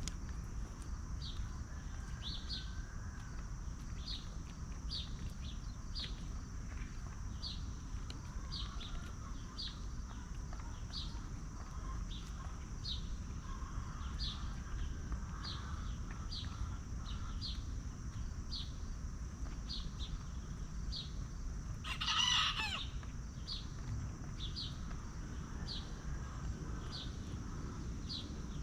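Free-range chickens calling softly, with one loud, short chicken call about 22 seconds in. Behind them a steady high insect drone runs, with a short high chirp repeating about every 0.7 seconds.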